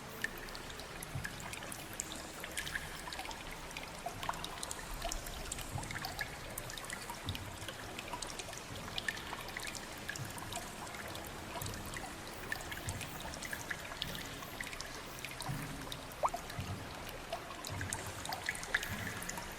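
Water trickling and splashing in the underground river cave, with many small, sharp drips scattered throughout.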